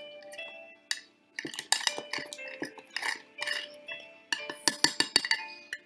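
Cutlery clinking and knocking irregularly against a mug while stirring cake batter, with background music playing underneath.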